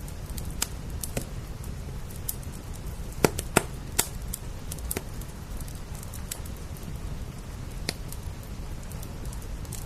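Wood fire crackling, with scattered sharp pops a second or more apart, over a steady low rumble and the even hiss of steady rain.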